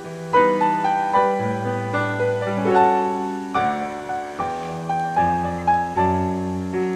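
Background piano music, a calm melody of struck notes over sustained low chords.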